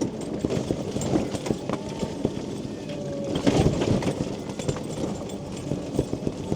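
Rain falling on a mobility scooter's canopy: a dense, irregular patter of drops, with a louder rush of noise about three and a half seconds in.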